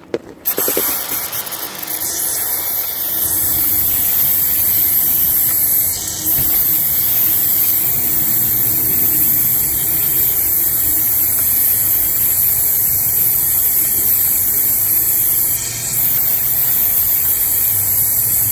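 Aerosol chain lubricant spraying onto a motorcycle chain in a long, steady hiss. It starts about half a second in and breaks off briefly twice, about 6 s and 16 s in.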